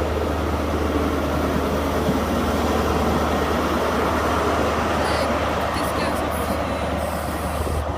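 Diesel engines of a Class 43 High Speed Train power car running under power as the train pulls out, a loud steady drone with a deep hum underneath.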